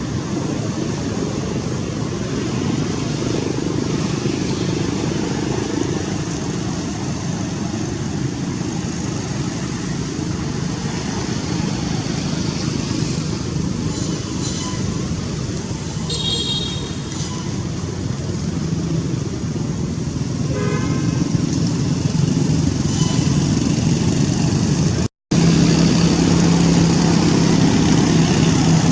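Steady motor vehicle noise, like traffic or an engine running, with a few brief high-pitched squeaks about halfway through.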